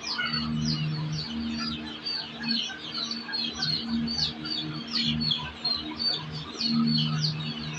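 Many birds chirping at once in a dense, continuous chorus of short high calls, with a low on-off sound underneath.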